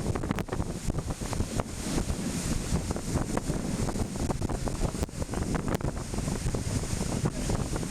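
Strong wind buffeting the microphone in gusts, over the steady wash of ocean surf.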